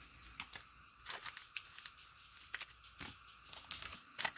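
Football trading cards being handled as a pack is gone through: scattered light clicks, slides and rustles of card stock and wrapper, with a sharper click about two and a half seconds in and another near the end.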